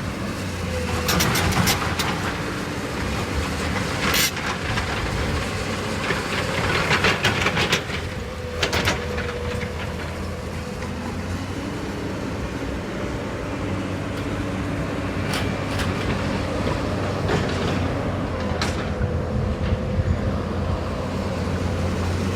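Heavy diesel machinery running steadily, with irregular metallic clanks and rattles of material being handled.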